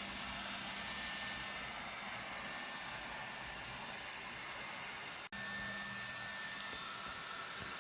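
Steady rushing noise of a running air-moving machine, such as a shop blower, with a faint steady hum under it. The sound drops out for an instant about five seconds in, then resumes.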